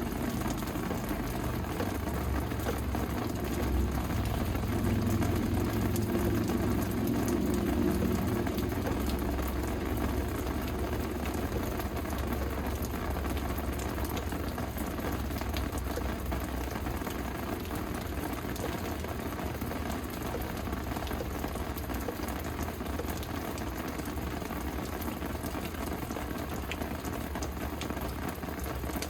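Steady rain falling and pattering on hard surfaces, with many fine drop ticks. A low rumble underneath is strongest over the first ten seconds or so, then eases.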